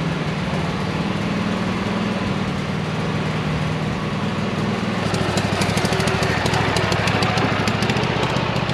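An engine running steadily, then working harder with a fast rattle from about five seconds in, as a car is being moved.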